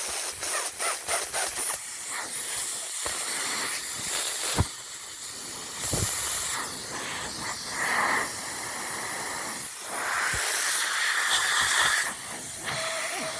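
Air hissing out of a car tire through a nail puncture, steady but swelling and dipping in strength, with several sharp clicks in the first couple of seconds.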